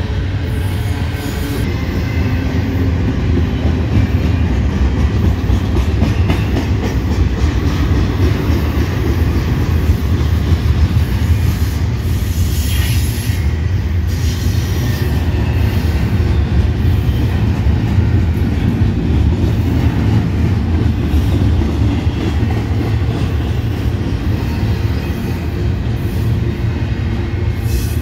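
Double-stack intermodal freight train's container well cars rolling past: a loud, steady rumble of steel wheels on the rails.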